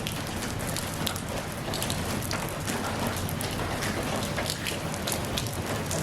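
Steady rain falling on a surface, with many separate drops pattering and ticking close by over the even hiss of the downpour.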